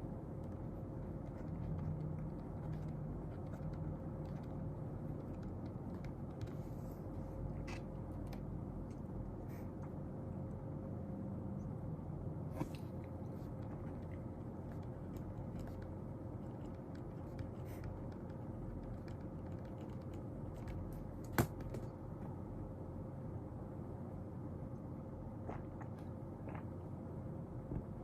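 Steady room noise with a faint steady hum, broken now and then by light clicks and taps of desk work; the sharpest click comes about 21 seconds in.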